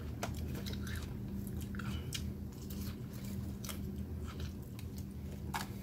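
Close-up chewing and crunching of salad, with scattered clicks of a plastic fork against a plastic clamshell container, over a steady low hum.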